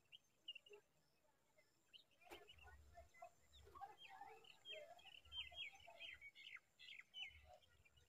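Faint, quick series of short, high chirps from small birds, thickest between about four and seven seconds in, with a single soft click about two seconds in.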